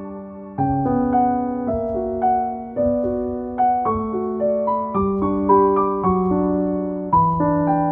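Background music: a soft solo piano playing gentle, slow arpeggiated notes, each note struck and left to ring.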